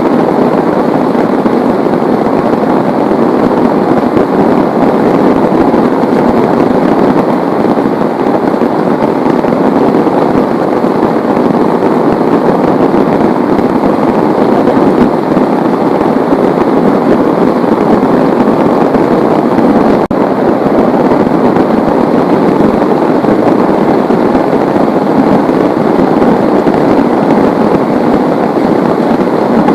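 Heavy rain falling: a loud, steady, dense patter that does not let up.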